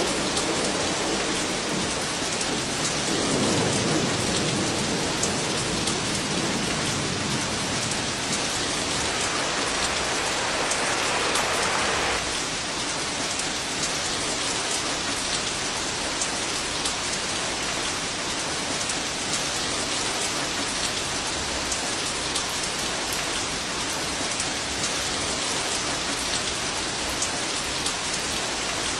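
Heavy, steady rain, a dense hiss of drops hitting surfaces. A low rumble of distant thunder swells a few seconds in, and the hiss changes abruptly about twelve seconds in.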